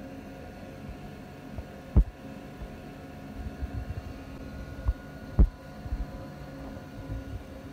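A steady low electrical hum, broken by two loud sharp knocks about two and five and a half seconds in, with softer low bumps between them.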